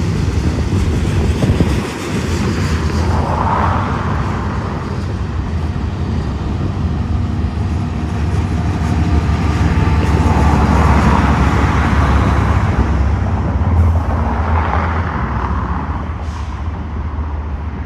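Freight cars of a manifest train rolling past on the rails: a loud, steady rumble with swells of wheel noise every few seconds.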